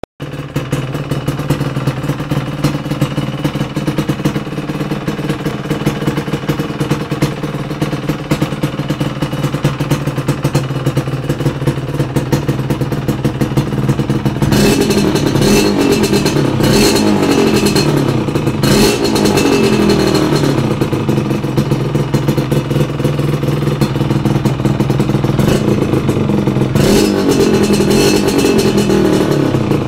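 Yamaha RD125LC Mk3 two-stroke single-cylinder engine running through a Gibson Allspeed small-can exhaust. It idles steadily for about the first half, then is revved up and down repeatedly and more loudly.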